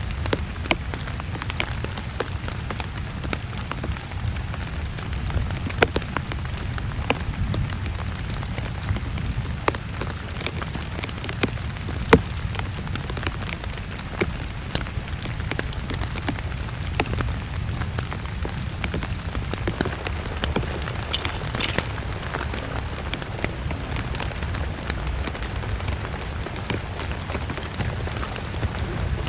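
Heavy rain falling, a steady low drumming scattered with many sharp ticks of drops striking close by. A brief hiss rises over it about two-thirds of the way through.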